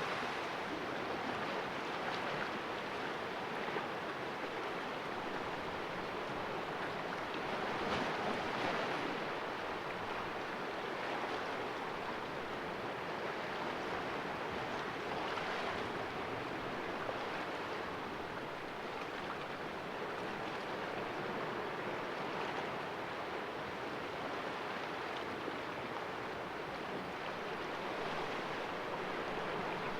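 Sea waves washing and splashing against the rocks of a small cove, a steady rush of surf that swells gently now and then, most strongly about eight seconds in.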